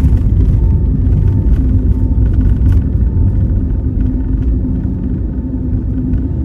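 Jet airliner cabin noise: a steady low rumble of engines and airflow with a constant droning hum, easing slightly towards the end.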